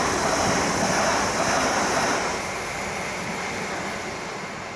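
Electric multiple-unit train running through the station: a loud rushing of wheels and air that fades away gradually after about two seconds.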